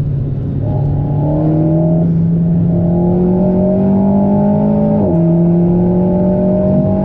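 Alpine A110's turbocharged 1.8-litre four-cylinder, remapped to 300 PS, heard from inside the cabin under hard acceleration out of a slow corner: revs climb steadily, then a paddle-shifted upshift about five seconds in drops the pitch sharply and the revs climb again.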